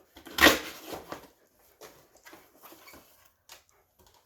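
A sharp, loud thump about half a second in, then faint scattered rustles and clicks of box packaging being handled.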